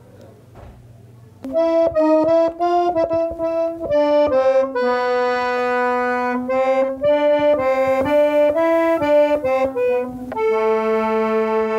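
A lively tune played on an accordion, starting about a second and a half in, with runs of quick notes alternating with held chords.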